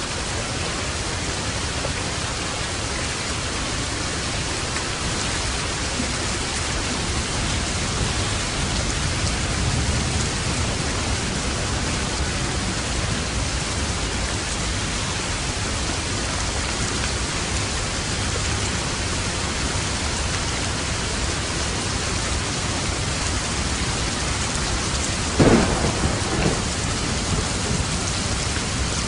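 Steady, heavy rain falling. A low rumble of thunder swells about a third of the way in, and a sharp crack of thunder with a few weaker after-cracks comes near the end.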